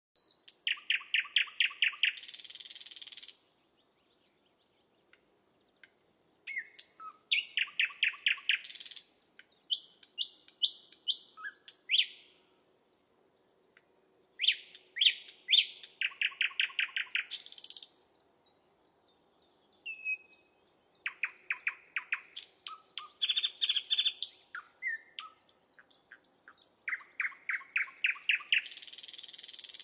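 Sikatan londo flycatcher singing: phrases of rapid repeated chirping notes and trills, several of them ending in a harsh hissing buzz, separated by short pauses.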